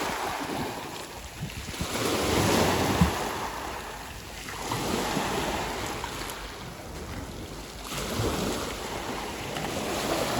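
Sea waves breaking and washing up the beach, the surf rising and falling in slow surges every few seconds, with wind buffeting the microphone.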